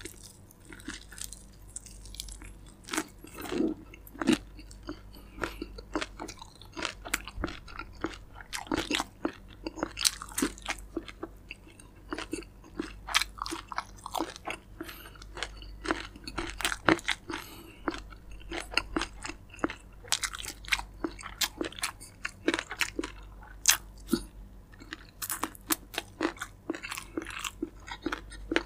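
Close-miked chewing and biting of fried chicken: a dense, irregular run of sharp crunches, several a second, between bites.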